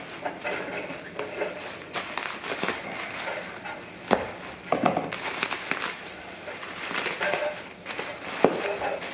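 Packing material being pulled off and crumpled by hand while unwrapping a parcel: an irregular run of crinkles and crackles, with a sharper crack about four seconds in and another near the end.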